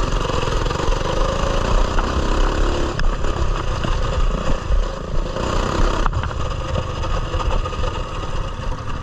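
Coleman mini bike's small engine running as the bike is ridden, its speed rising and falling a little. Two sharp knocks come about three and six seconds in.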